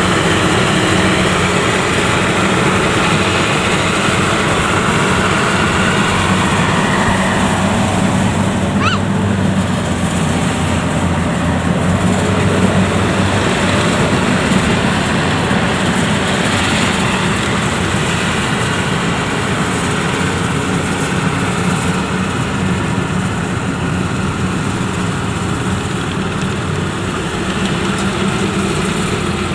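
Yanmar YH85 rice combine harvester running steadily under load as it drives through a muddy paddy, its engine and machinery making a dense, constant mechanical noise. A brief rising whistle sounds about nine seconds in.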